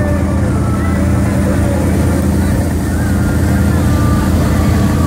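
Classic car engine idling nearby with a steady low rumble, with faint crowd voices underneath.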